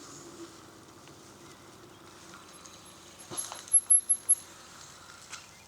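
Faint steady outdoor ambience of a bicycle ride, with a quick run of four loud, short, high-pitched chirps about three and a half seconds in.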